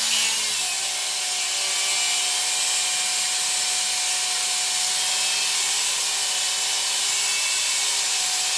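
A power tool running steadily, a hissing noise with a steady whine that settles in pitch about half a second in.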